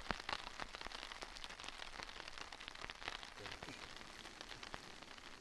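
Rain falling on the fabric of an ice-fishing tent, heard from inside: a steady run of many small taps.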